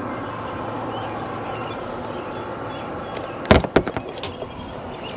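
Steady outdoor background noise, with a quick run of four or five sharp clicks or knocks about three and a half seconds in.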